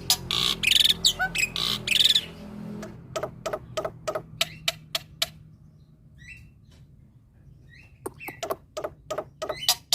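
Male black-winged starling (jalak putih) singing: rapid runs of sharp clicking notes, with a loud harsh squawky burst in the first two seconds. A lull with a few faint calls follows in the middle, then quick sharp notes pick up again from about eight seconds in.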